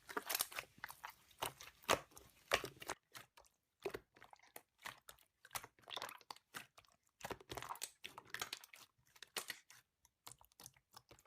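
Slime being squished and played with by hand, making irregular small clicks, crackles and pops, densest in the first few seconds and sparser after.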